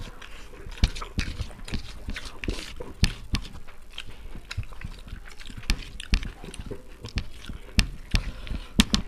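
Close-miked eating sounds from two people eating chicken biryani by hand: wet chewing and lip smacks, with many irregular sharp clicks.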